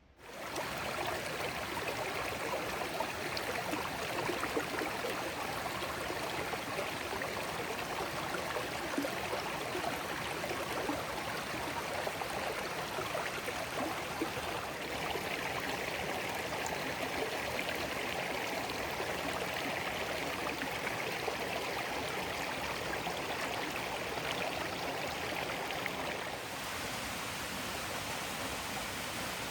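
Steady rush of running water, cutting in abruptly at the start and easing slightly near the end.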